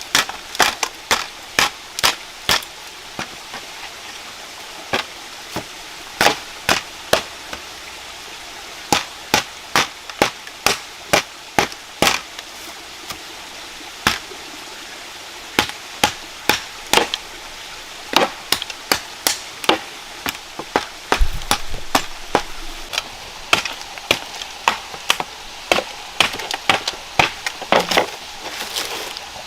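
Wood being chopped: sharp strikes, often two or three a second, in runs broken by short pauses.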